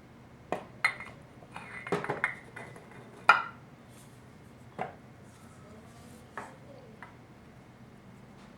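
Metal clinks and knocks of 4L60E transmission pump parts being handled and fitted together while their holes are lined up: about eight separate sharp strikes, the loudest about three seconds in.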